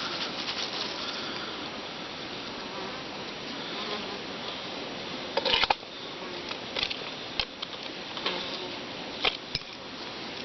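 Steady outdoor buzzing and hissing, like insects, with a handful of sharp clicks and knocks in the second half, the loudest about five and a half seconds in.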